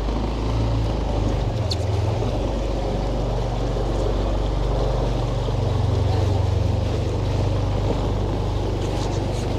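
A vehicle engine running steadily, with wind rumbling on the microphone.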